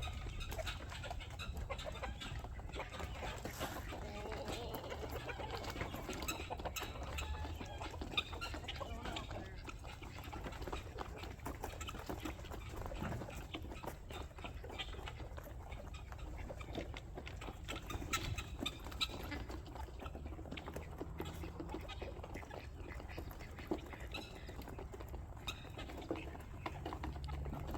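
Mixed flock of chickens, ducks and guinea fowl calling over one another, a continuous busy chatter of many short calls.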